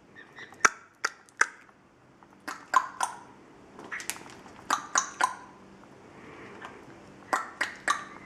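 Cape parrot making sharp clicks with her beak, in quick groups of three or four.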